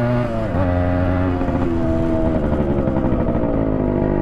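Yamaha RX100's two-stroke single-cylinder engine running loud on the move with the silencer's baffle mesh removed, a raw open-exhaust sound. Its pitch dips briefly about a third of a second in, then holds steady.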